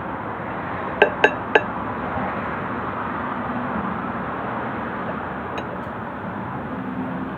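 Three quick ringing clinks of tableware, like a utensil tapping a plate or glass, about a second in, over a steady hum of room noise.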